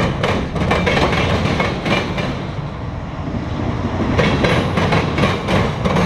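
CSX freight train's railcars rolling past, steel wheels clacking over rail joints many times over a steady low rumble.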